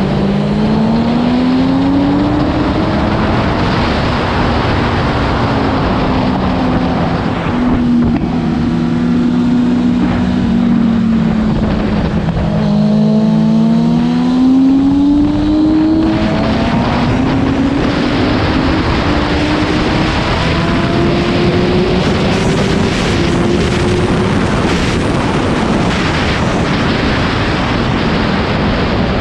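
Motorcycle engine running hard on a race track, its pitch climbing under acceleration and dropping back several times with throttle and gear changes, over a steady rush of wind noise.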